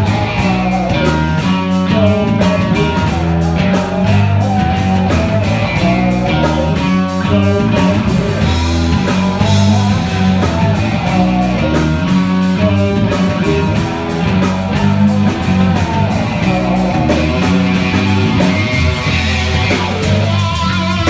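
Live funk-rock band playing an instrumental stretch: an electric guitar line over a Fender Jazz Bass through an Ampeg SVT amp and a drum kit, with a steady driving rhythm.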